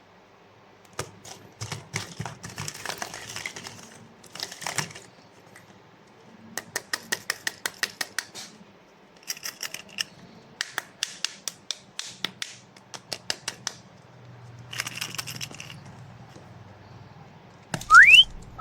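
Runs of rapid, sharp clicks, several a second, with short bursts of hissy rustling between them. A rising whistle-like glide comes near the end.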